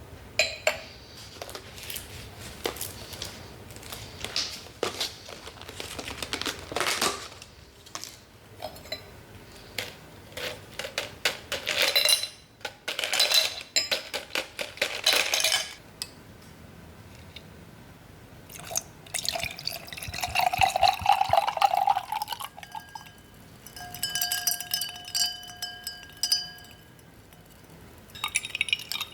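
Wine glasses and dishes handled on a table, with many light clinks and knocks. About two-thirds of the way in, liquid is poured into a glass. Then a glass rings with a clear, steady tone for about three seconds.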